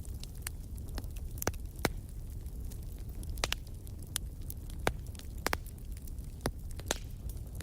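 Wood campfire burning: irregular sharp crackles and pops from the burning wood over a steady low rumble of the flames.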